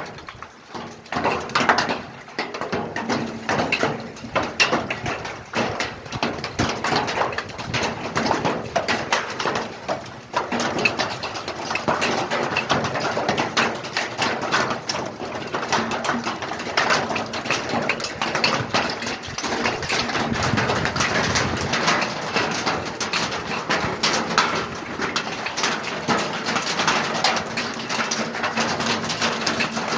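Storm downpour pelting a hard surface: a dense, rapid patter of impacts, a little quieter for the first couple of seconds and then steady.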